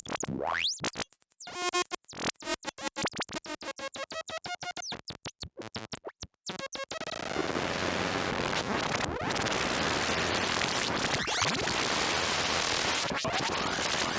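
Lorre-Mill Double Knot synthesizer playing a patch: rapid stuttering pitched notes with a rising sweep and short drop-outs. About seven seconds in, it turns into a dense, steady hiss of noise.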